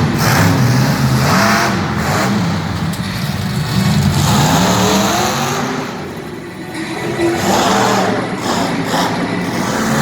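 Monster truck engine revving hard, its pitch rising and falling again and again. It eases off briefly about six seconds in, then revs up again.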